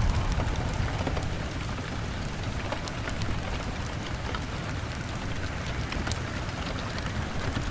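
Steady rain on a window pane, with scattered sharp crackles and pops from a log fire. A low rumble eases off during the first second.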